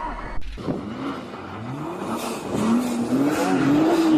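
Car engine revving, its pitch climbing and then holding, over tyre and road noise, after an abrupt change about half a second in.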